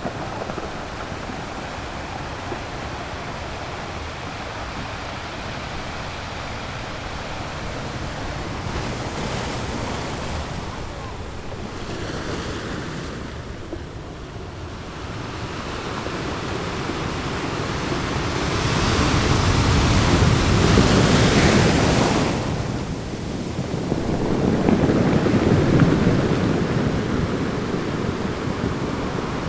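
Sea waves breaking and washing over a rocky shore: a continuous surf roar that swells and ebbs, with the biggest wave building about two-thirds of the way through and another close behind it.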